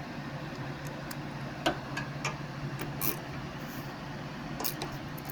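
A few separate light metal clicks and taps from a wrench working a 3/8-inch bolt on a lawnmower carburetor, over a steady low hum.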